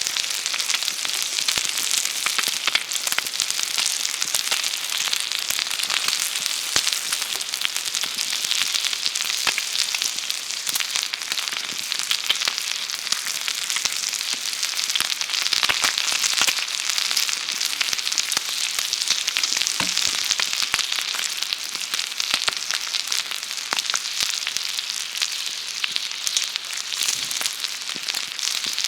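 Meat sizzling over a campfire, a steady hiss peppered with small crackling pops.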